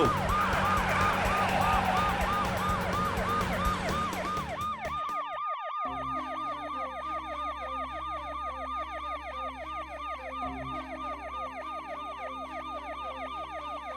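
Police car siren in a fast yelp, about three sweeps a second. It is layered over a noisy bed at first; after about five seconds the noise drops away and the sweeps come thicker, as if several sirens overlap.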